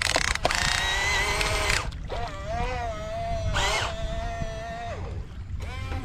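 RC excavator's small electric motors whining as its arm works. There is a short whine in the first seconds, then a longer one that spins up about two seconds in, holds steady, and winds down near the five-second mark, over a low rumble.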